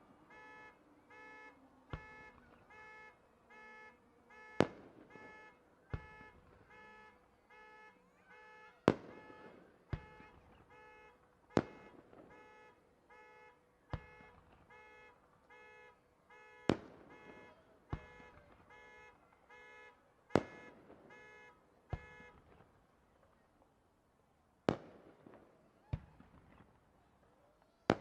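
Fireworks shells bursting: about a dozen sharp bangs, irregularly one to four seconds apart. Under them a repeating electronic beeping pulses steadily, about two to three beeps a second, and stops a few seconds before the end.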